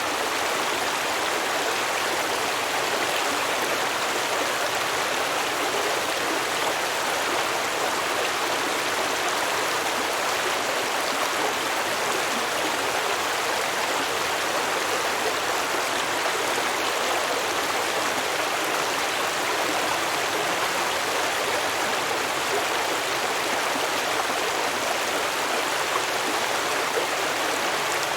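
Stream water flowing and babbling over rocks, a steady, even rush with no break.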